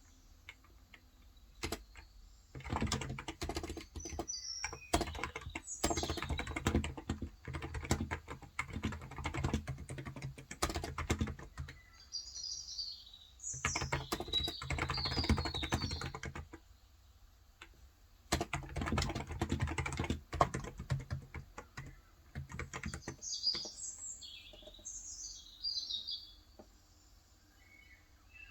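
Fast typing on a COX Endeavor electrostatic-capacitive (contactless) tenkeyless keyboard with 35 g switches, in three long runs of rapid keystrokes with short pauses between them. Small birds chirp in quick high bursts several times over the typing.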